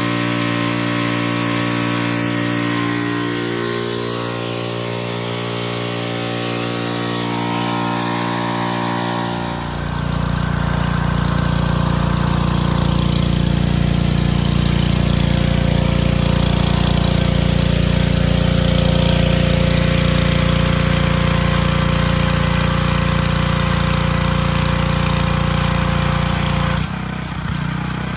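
Pressure washer's small engine running steadily. About a third of the way in the sound shifts abruptly to a heavier, lower running note, and it dips briefly near the end.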